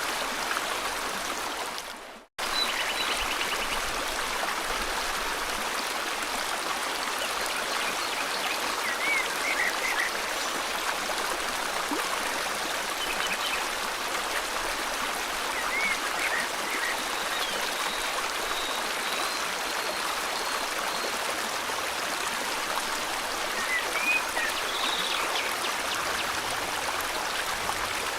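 A river or stream flowing in a steady, even rush, with a few short bird chirps now and then. About two seconds in, the water sound fades out to silence for a moment and comes straight back, like a loop joint in the recording.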